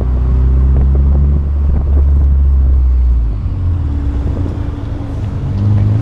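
Car engine running steadily under load while driving: a low, even drone that eases off a little about three seconds in, then picks up slightly near the end.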